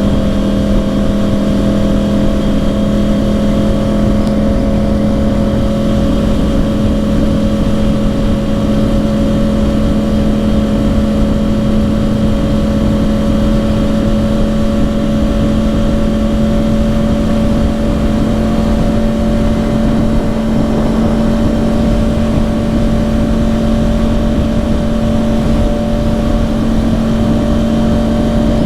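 2010 Yamaha R1's crossplane inline-four with dual Yoshimura exhausts, heard from the saddle at a steady, loud cruise; the engine note holds even and creeps slightly higher in pitch, with wind noise underneath.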